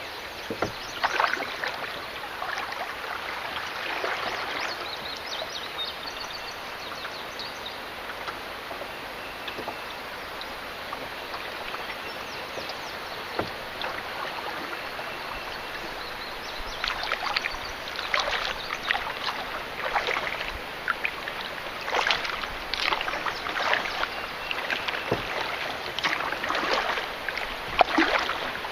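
Paddle strokes in river water from a canoe: repeated dips, drips and small splashes over a steady rush of water, coming more often in the second half.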